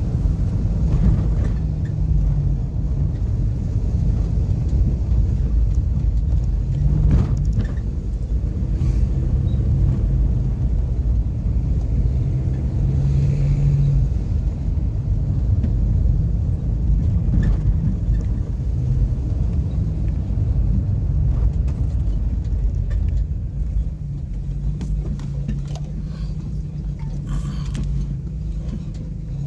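Car driving along a road: steady low engine and road rumble with an engine hum that rises and fades, and a few scattered knocks.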